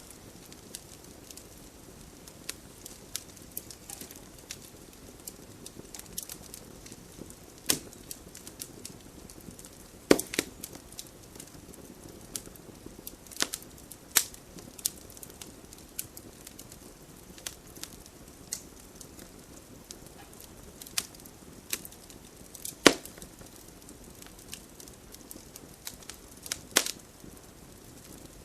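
Campfire burning: a steady low rush of flame with scattered sharp pops and crackles from the burning wood. Two snaps stand out as the loudest, about a third of the way in and again past three-quarters of the way through.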